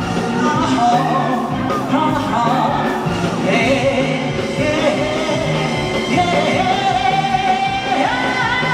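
Live band playing a pop song, with a male singer's voice holding long notes over it.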